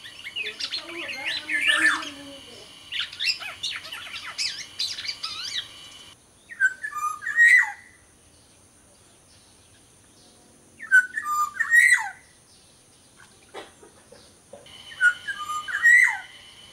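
Black-naped oriole (kepodang) singing: a busy run of chirps and whistles, then the same short fluty whistled phrase three times, a few seconds apart.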